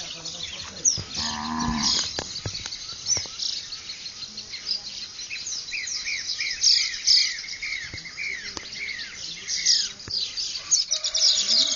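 Dawn chorus of many birds: high chirps throughout and a run of repeated down-slurred whistled notes from about five to nine seconds in. A cow moos briefly about a second in, and a lower wavering call comes near the end.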